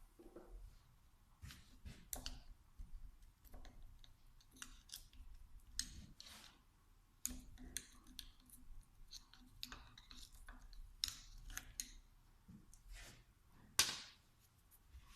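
Scattered clicks and light knocks of tools and small metal parts being handled while a VE distributor-type diesel injection pump is taken apart, with one sharper knock near the end.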